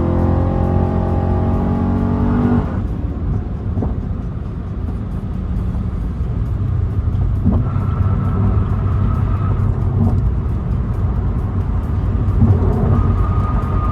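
A car's engine and exhaust running at a steady note while driving. The note cuts away abruptly about three seconds in to a low, steady rumble of driving noise.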